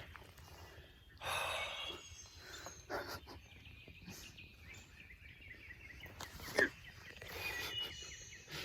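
Woodland outdoor sound with scattered small bird calls and brief noisy rustles, and a single sharp click about six and a half seconds in.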